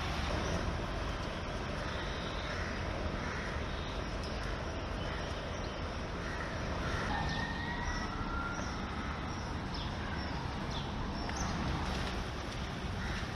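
Steady noise of traffic and water on a flooded street, with a few short, thin high-pitched sounds around the middle.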